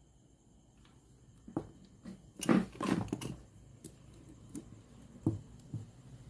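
Hands working on a radio cassette player: a cluster of knocks and rustling about two and a half seconds in, then scattered single clicks.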